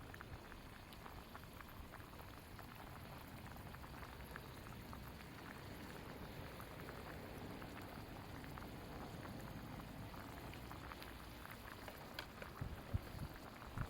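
Food bubbling and sizzling in a pot over a campfire: a steady fine crackle of simmering, with a few sharper pops near the end.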